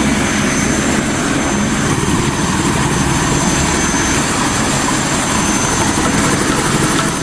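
Helicopter in flight: rapid, steady rotor chop under a thin, high, steady engine whine. It starts abruptly and cuts off near the end.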